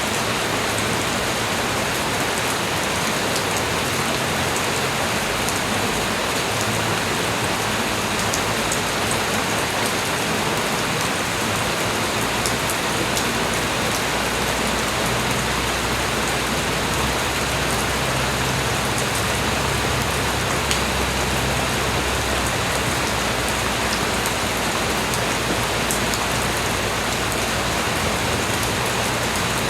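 Steady light rain falling, an even hiss dotted with the fine ticks of individual drops. A low rumble underneath swells for several seconds around the middle.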